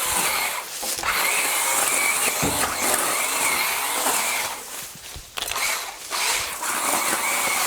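A small motor-driven power tool running with a high, wavering whine, like a remote control car, easing off briefly a few times.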